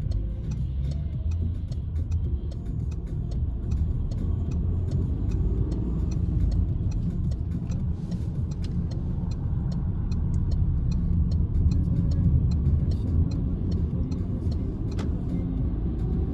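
Citroen C-Elysee with a 1.2 three-cylinder EB2 PureTech engine, heard from inside the cabin, driving at a steady pace with a low engine and road rumble. Faint light ticks repeat evenly throughout.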